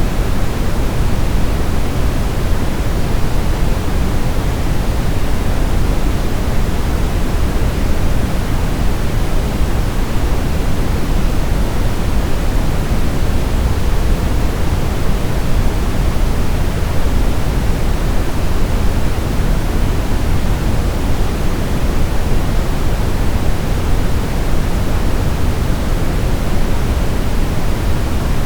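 Brown noise: a steady, even hiss weighted heavily toward the low end, deep and rumbling with little treble, without change.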